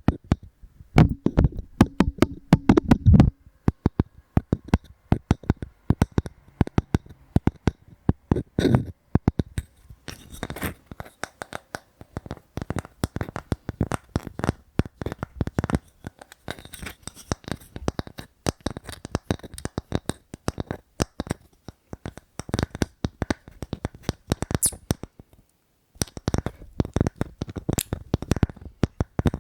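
Fingers tapping quickly on wood, a dense run of small sharp knocks with a brief pause near the end.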